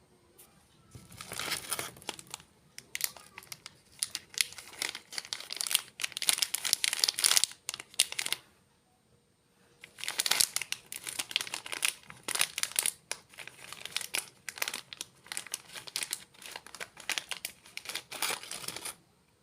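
Plastic snack packet crinkling as it is handled, in two long spells of dense crackling separated by a short pause about halfway through.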